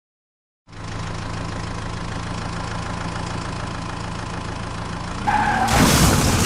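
A vehicle engine idling steadily, starting about a second in. Near the end a much louder, noisy rush comes in over it.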